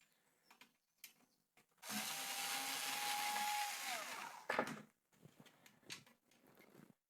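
Small electric power screwdriver running for about two seconds at a steady pitch, winding down at the end, followed by a sharp clunk; light handling clicks of parts and tools around it.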